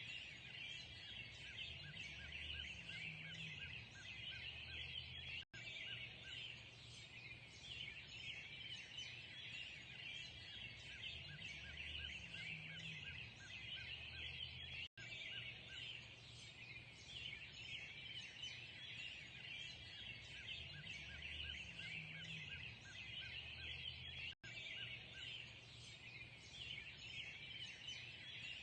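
Dawn chorus of many birds chirping and singing together over a low steady rumble. It is a short recording looped about every nine and a half seconds, with a split-second gap at each join.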